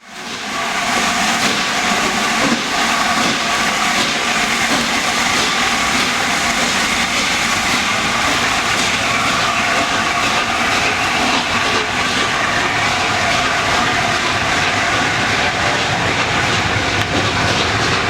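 Railway train running, a steady rumble and hiss with a few faint steady tones in it, cutting in suddenly from silence.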